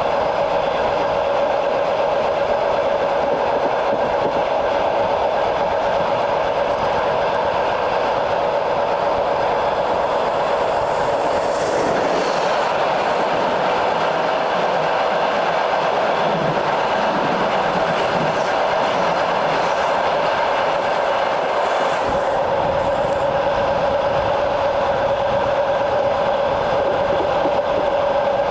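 A train running along the track, heard on board: a steady rolling noise with the wheels clattering over the rails and a steady whine held under it.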